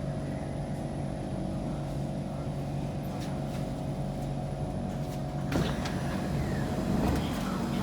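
Kawasaki C151 MRT train heard from inside, a steady hum with several constant tones. About five and a half seconds in a sudden louder rush of noise with clicks and rattles joins it.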